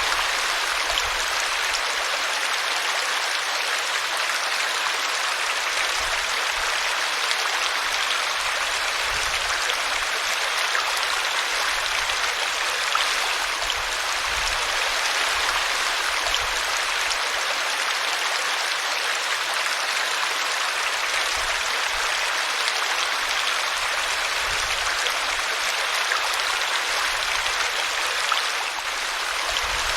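Small brook flowing over a tree root: a steady, even rush of running water.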